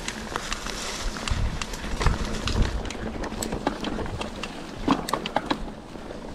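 Mountain bike rolling over a rough trail: irregular rattles and clicks from the bike and tyres on stones, over a low rumble of wind on the microphone.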